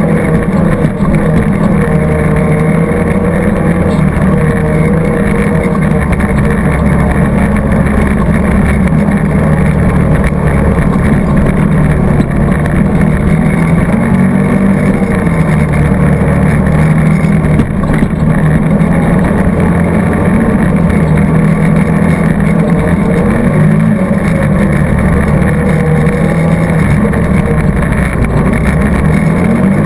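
ATV engine running hard on a trail ride, its pitch rising and falling a little with the throttle.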